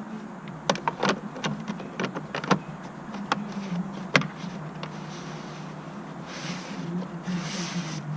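Irregular sharp clicks and knocks, about a dozen, over a steady low hum, with two short hissing rushes near the end.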